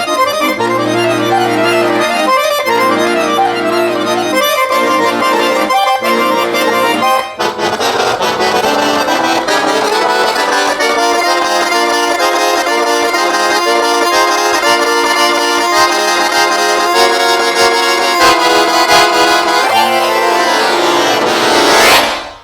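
Solo accordion playing a Russian folk piece: sustained chords over held bass notes at first, then fast running passages. The piece ends with a final flourish shortly before the end.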